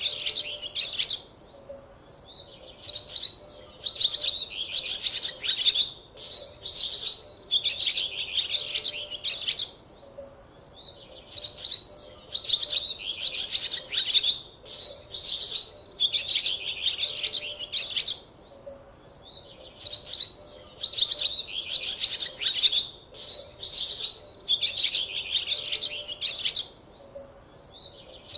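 Small birds chirping in repeated runs of rapid, high chirps, each run lasting a second to a few seconds, with short pauses between.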